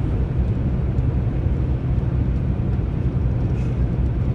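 Inside a moving truck's cab: steady low rumble of the engine and tyre noise at road speed.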